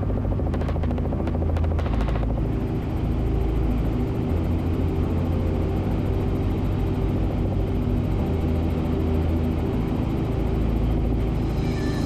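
Helicopter in flight, heard from inside the cabin: the steady drone of the rotor and engine.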